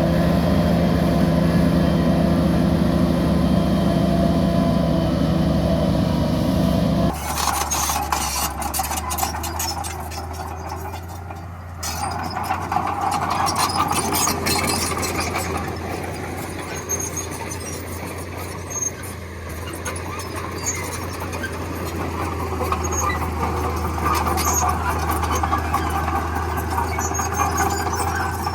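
Heavy earthmoving machinery with diesel engines running. About seven seconds in, the sound changes abruptly from a steady engine hum to a lower engine note with rapid clanking and knocking.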